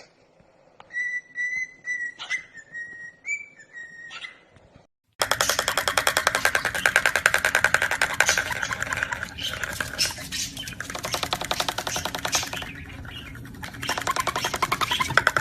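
A pet parrot whistling a series of short, level-pitched notes with a few clicks. About five seconds in this cuts off and music with a fast, steady beat takes over.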